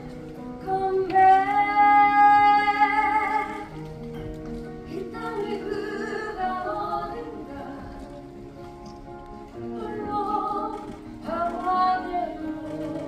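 A song with a woman singing over instrumental accompaniment. About a second in she holds one long note, then goes on in shorter phrases.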